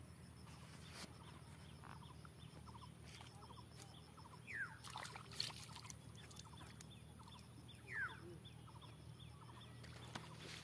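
Faint bird calls: short repeated notes, with two louder calls sliding downward in pitch, about four and a half and eight seconds in, over a steady low hum.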